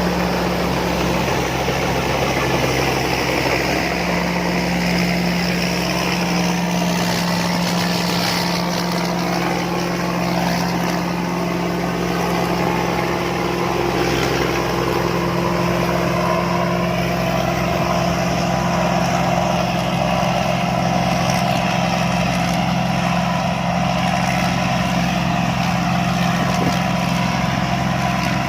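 Combine harvester engine running steadily, with a constant low hum and a fainter whine that drifts in pitch.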